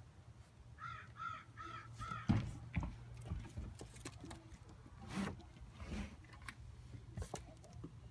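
A crow cawing four times in quick, even succession, followed by scattered knocks, thumps and rustles.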